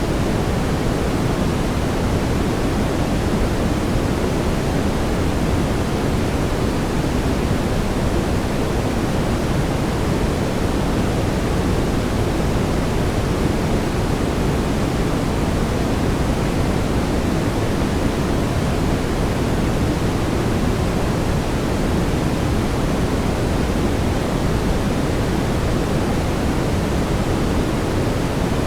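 Steady brown noise: an even, unbroken rush with most of its weight in the low end, thinning toward the top, holding the same level throughout.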